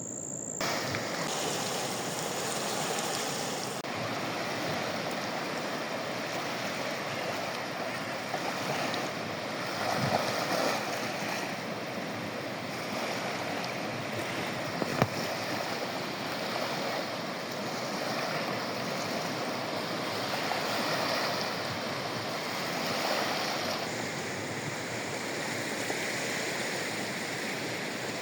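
Sea waves washing onto the shore: steady surf that swells and eases in slow surges. A single sharp click about halfway through.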